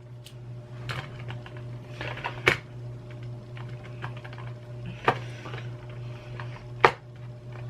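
Scattered sharp clicks and taps of small tools working on the plastic parts of a computer mouse, with four louder clicks among fainter ticks, over a steady low hum.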